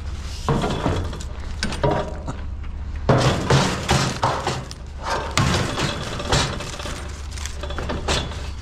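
A metal chair being shoved and wedged into a trailer piled with scrap metal: a run of irregular clanks and crashes as metal knocks against metal, the loudest about three seconds in and again about five seconds in.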